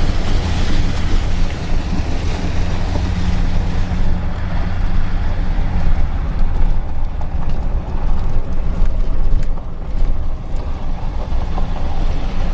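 Motor vehicle driving over a rough, rain-soaked farm track: a steady low engine rumble with a few knocks and rattles from the bumps, and wind on the microphone.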